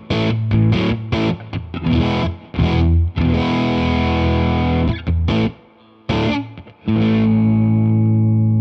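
Electric guitar played through a Jeds Peds Bird Strike, a clone of the Hudson Broadcast Dual Preamp, driven into distortion: a run of short, choppy chord stabs, a longer ringing chord, a brief pause, then one final chord held and left to ring.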